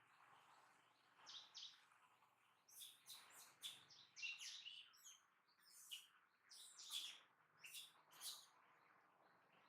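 Baby slow loris giving a faint run of short, high-pitched distress calls, quick chirps in clusters, the cry of an infant left alone by its mother.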